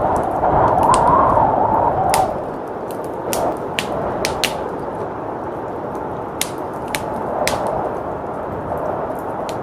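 Wood fire crackling in a fireplace, with sharp, irregular pops, over the steady rush of a blizzard wind that swells during the first two seconds and then settles.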